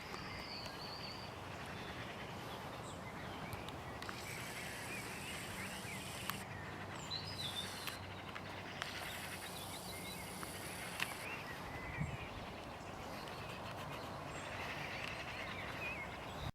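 Small birds chirping and calling over a steady rushing background, with a few faint clicks.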